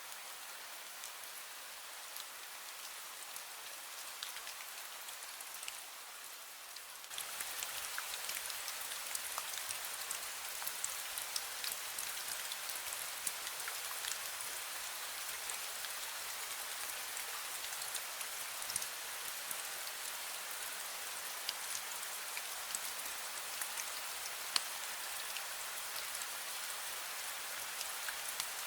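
Drizzle pattering steadily, with many small drop ticks. It gets louder about seven seconds in.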